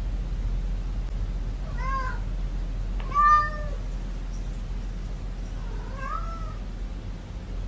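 A cat meowing three times, each meow rising and falling in pitch; the middle one is the loudest. A steady low hum runs underneath.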